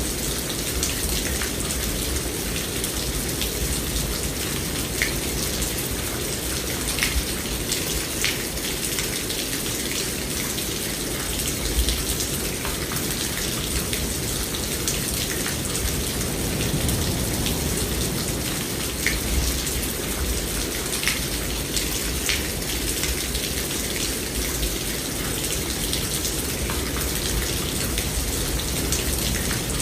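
Steady rainfall, with scattered individual drops ticking sharply over the even hiss of the rain.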